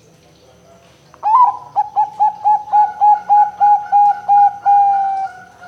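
Zebra dove (perkutut, Bangkok type) singing: about a second in it begins a rapid run of about a dozen short cooing notes, roughly four a second, ending in one longer drawn-out note.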